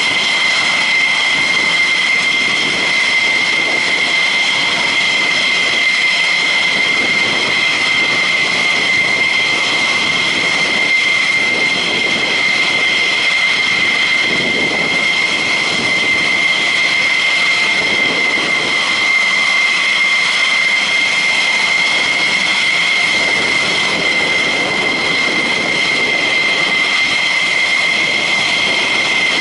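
Jet engines idling with a steady high-pitched whine over a constant rush of exhaust noise.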